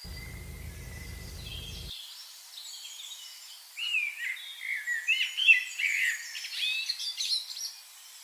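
Songbirds singing: fast, varied chirping and warbling phrases, loudest in the second half. A low rumble sits under the first two seconds.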